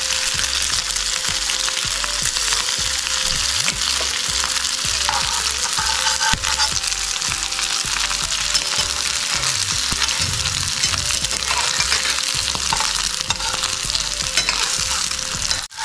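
Chicken burger patties sizzling steadily as they fry in a pan.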